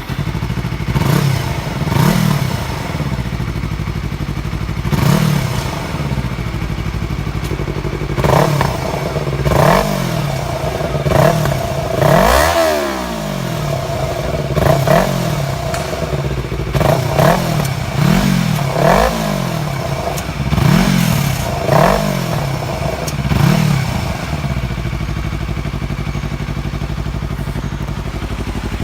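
Yamaha R25 parallel-twin engine revved in repeated short blips from idle through an exhaust with a button-switched sound valve. There are about fifteen quick revs, the highest about twelve seconds in, and it settles to a steady idle for the last few seconds.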